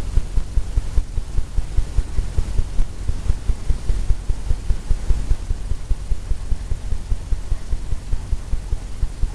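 Bristle brush tapping and dabbing paint onto a stretched canvas, a rapid even run of low thuds about five a second as the canvas sounds under each stroke while clouds are laid in.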